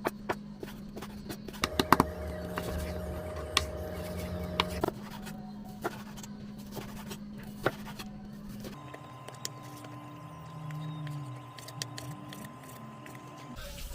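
Kitchen food-preparation sounds: scattered light clicks and knocks over a steady appliance hum, the hum changing pitch abruptly several times.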